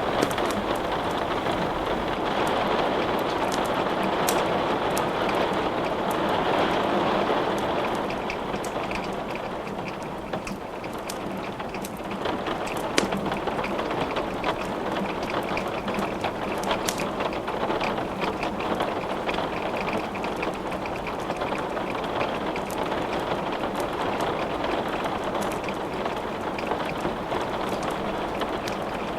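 Steady rain falling, with scattered sharp crackling clicks throughout and one louder crack about 13 seconds in.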